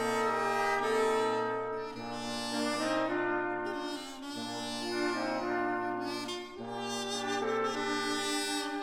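Brass ensemble playing slow chords of held notes, with trombones and trumpets, moving to a new chord every second or two.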